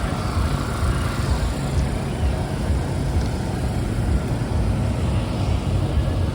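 Wind buffeting the microphone: a steady, irregular low rumble with a faint hiss of outdoor ambience above it.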